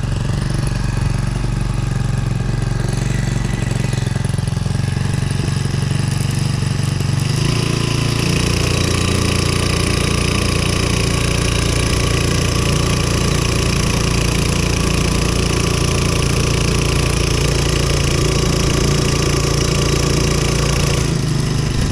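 Brand-new Hangkai 4 hp four-stroke outboard motor, in its break-in hours, running steadily. About seven seconds in it opens up to a higher throttle, and its note grows fuller and brighter.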